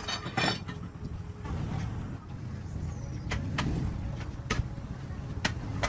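A vehicle engine running with a steady low rumble, with several sharp knocks on top: one near the start, two close together about three and a half seconds in, and two more later.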